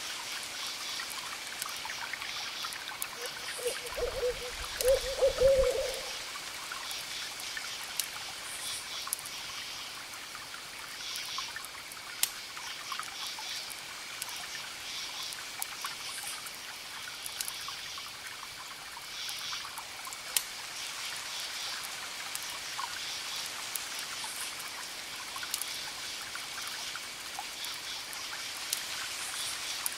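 An owl hooting a short series of hoots about three to six seconds in, over the steady hiss and scattered sharp crackles of a wood fire.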